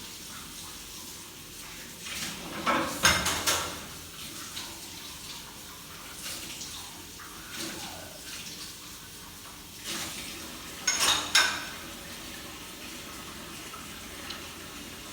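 Clinking and clattering of hard objects in two short spells, about three seconds in and again about eleven seconds in, over a steady hiss.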